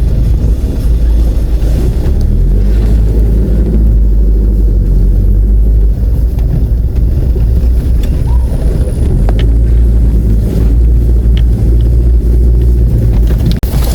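Loud, steady low rumble of a vehicle on the move, with a few short knocks in the second half.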